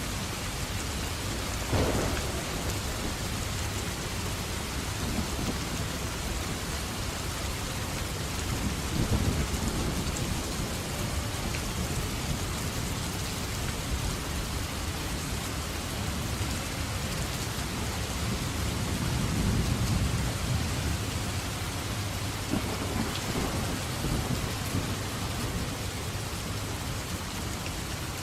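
Steady heavy rain falling, with rumbles of thunder swelling up about two seconds in, again near nine seconds and most strongly around twenty seconds.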